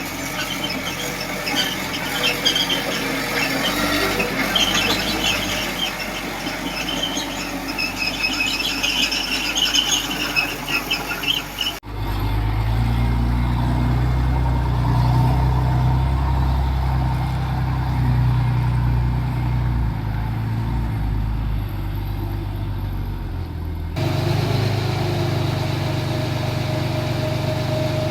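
Small bulldozer (Komatsu D20P) at work: high, shrill squealing from its running gear for the first twelve seconds or so. It then cuts suddenly to the diesel engine's low, steady running, with another cut near the end.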